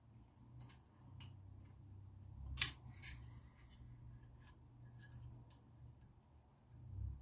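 Light metallic clicks and taps from small motorcycle fork parts being handled as a wire retaining clip is fitted, with one sharp click about two and a half seconds in, over a faint low hum.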